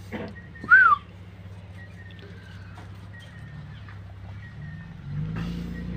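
A single short whistled call about a second in, rising and then falling in pitch and as loud as the nearby speech, over a steady low hum. A low rumble swells in near the end.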